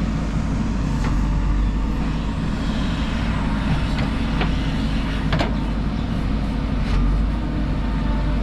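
JCB 3DX backhoe loader's diesel engine running steadily, with several sharp knocks scattered through it.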